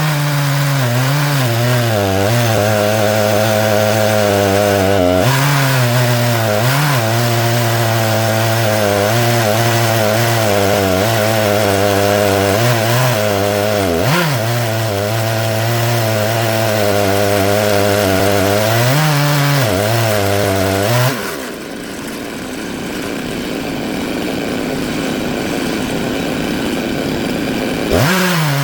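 Stihl MS 661 two-stroke chainsaw on an Alaskan mill, running under load as it rips through black walnut, its engine note sagging briefly now and then as the bar bogs in the cut. About two-thirds of the way through, the engine tone gives way to a quieter, even hiss for several seconds, and the saw is heard again near the end.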